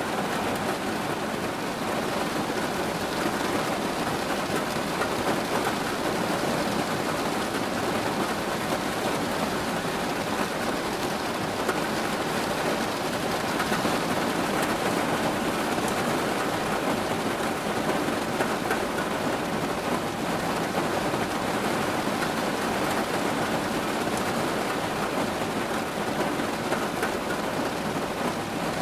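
Steady rain falling, an even hiss of drops on surfaces with no breaks or single loud events.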